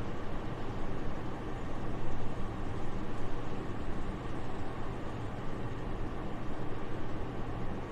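Soft, steady wind noise, an even hiss weighted to the low end with small swells in level.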